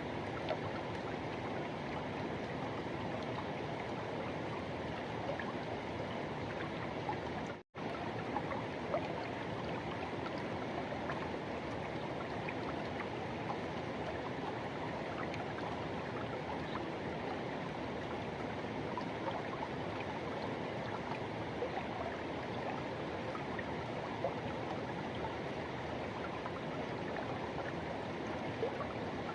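Forest river rushing and flowing, a steady wash of running water. The sound cuts out for a split second about eight seconds in.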